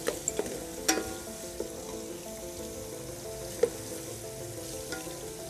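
Tomatoes and ground onion paste sizzling in hot oil in an aluminium pot, stirred with a wooden spatula that knocks against the pot a few times, the sharpest knock about three and a half seconds in.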